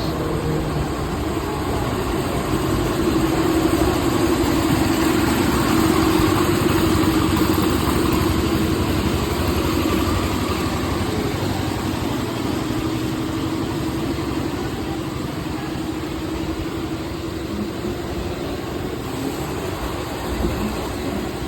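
Mumbai suburban local train running: a steady rumble with a motor hum that swells over the first few seconds and then slowly eases off.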